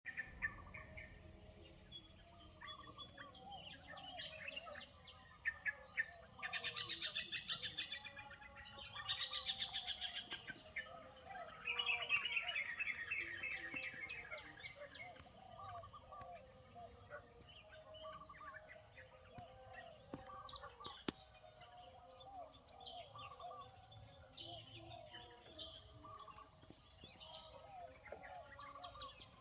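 Several birds chirping and singing over a steady high-pitched insect chorus. The loudest bird phrases are rapid trills, heard between about 6 and 14 seconds in; a single sharp click comes near 21 seconds.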